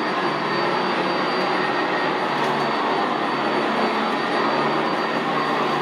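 Sanitaire SC679J commercial upright vacuum running steadily over carpet, its motor and brush roll making an even rushing noise with a thin, steady high tone above it.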